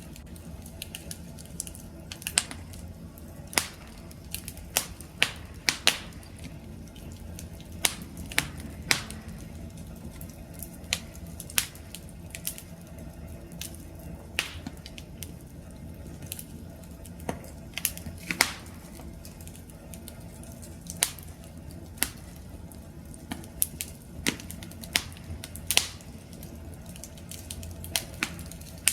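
Wood fire crackling: irregular sharp pops and snaps, one or two a second, over a low steady rumble of burning.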